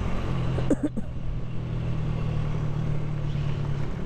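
Honda CG 125's single-cylinder four-stroke engine running at a steady cruising speed as the motorcycle is ridden, with wind rushing over the microphone. A brief short gliding sound cuts in about a second in.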